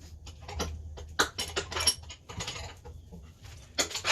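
Metal hand tools clinking and clattering as they are picked up and moved about, a quick irregular run of sharp clicks and knocks.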